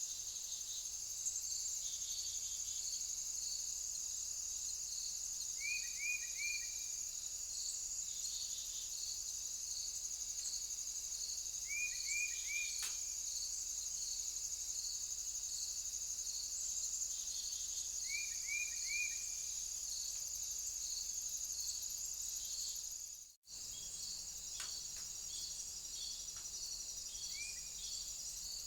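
Insects chirring steadily in a high, pulsing chorus. A bird gives groups of three quick notes a few times, about six seconds apart. The sound cuts out for an instant about three-quarters of the way through, where two trail-camera recordings are joined.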